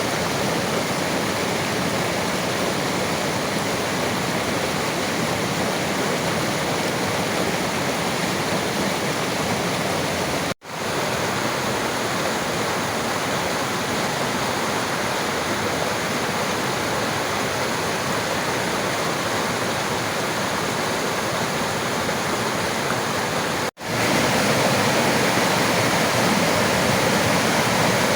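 Steady rushing of river water. It cuts out for a split second twice, about ten seconds in and again near the end, and comes back slightly louder after the second gap.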